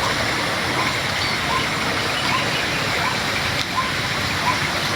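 River water rushing and splashing in a steady, full wash. Over it, a small bird gives short chirps at an even pace, a little under a second apart.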